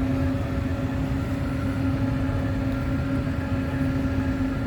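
Half-track farm tractor's engine running steadily under load while pulling a chisel plow, heard from inside the cab: a constant low rumble with a steady whine over it.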